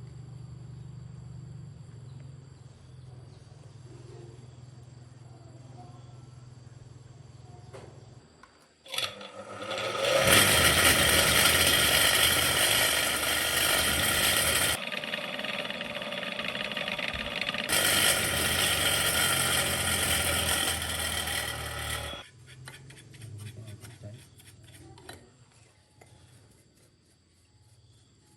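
A low steady hum, then about nine seconds in a power tool switches on and runs loudly with a whine for about twelve seconds, easing off briefly in the middle, before winding down.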